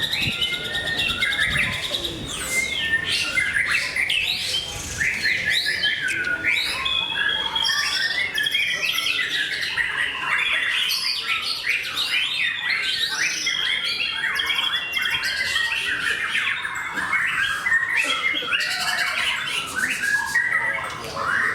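White-rumped shama (murai batu) singing a long, continuous song of quick, varied whistles and chattering notes.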